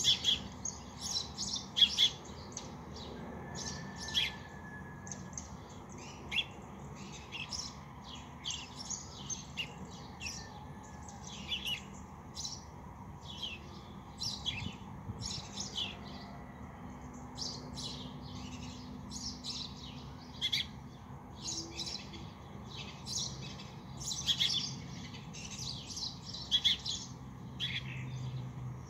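Small birds chirping, many short chirps coming thick and fast and overlapping, over a low steady hum.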